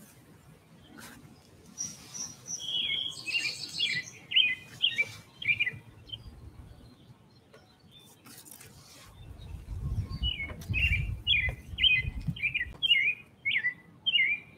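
A songbird singing two bursts of song, each a quick run of repeated, down-slurred chirps, one early and one in the second half.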